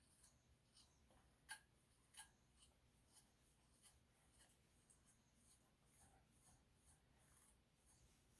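Near silence: faint room hum with a scattering of small, soft clicks and scratches.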